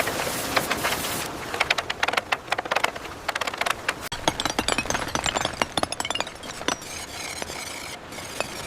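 Construction work clatter: a rapid, irregular run of knocks and clicks, over a hiss that drops away about a second in.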